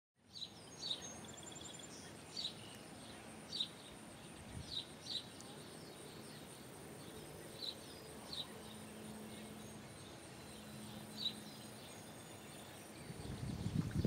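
Outdoor ambience of bird chirps: short high calls every second or two, irregularly spaced, over a steady high hiss. A low rumble rises near the end.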